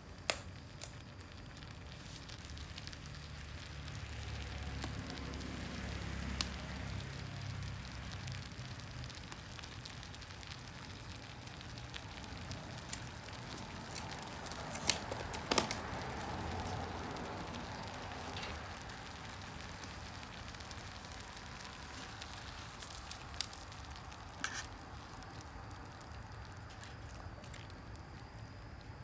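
Fire crackling, with scattered sharp pops over a steady hiss.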